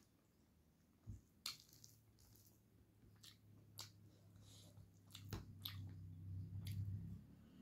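Quiet wet chewing and lip-smacking on a handful of rice and chicken curry eaten by hand: a string of short, sharp clicks and squishes, more frequent in the second half.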